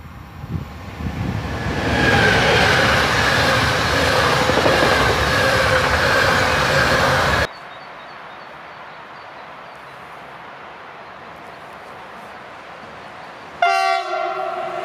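An electric locomotive passing close at speed, a loud wash of wheel and running noise with sustained tones in it, cut off abruptly about halfway. A low steady background follows, and near the end a second electric locomotive sounds a loud horn blast.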